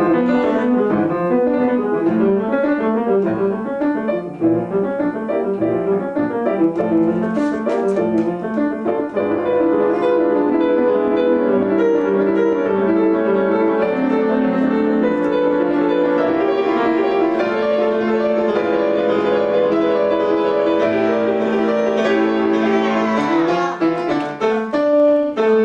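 Solo piano played without a break: a classical passage of many changing notes at an even loudness.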